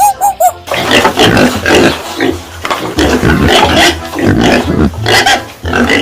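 A pig grunting, a quick run of harsh, noisy calls, after a bird's short chirps in the first half second.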